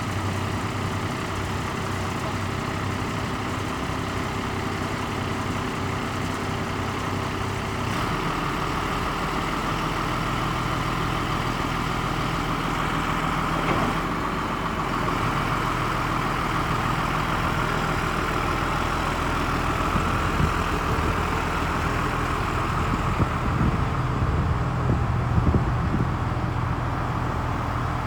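Diesel engine of a 1996 Ford LN7000 crane truck running steadily. About eight seconds in, the engine note gets a little louder and a steady higher whine joins it. A few short knocks come later on.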